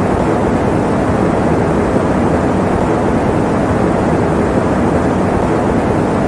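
Electric fan running steadily as sleep white noise: an even, low rushing sound with no hum, rhythm or change.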